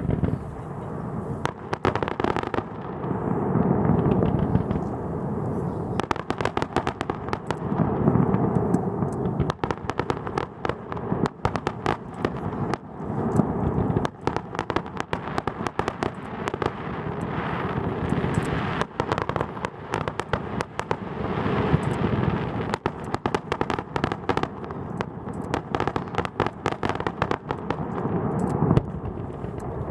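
Aerial fireworks display: shells bursting with deep booms every few seconds over a dense, continuous crackling and popping of smaller bursts.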